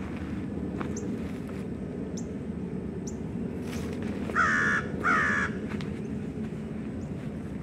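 Two loud, harsh bird caws back to back, each about half a second long, a little past the middle. A steady low hum runs underneath.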